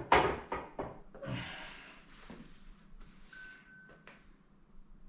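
A few sharp knocks and clatters in the first second, then a short hiss, and later a brief thin steady tone. These are handling noises of a workshop bench.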